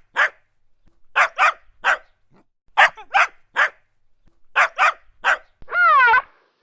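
Dog barking in quick groups of three short, sharp barks, then a short wavering cry near the end.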